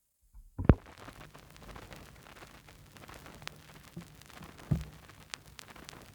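Run-in groove of a vinyl single playing before the music: a loud pop about half a second in, then surface noise of scattered crackles and ticks over a faint low hum.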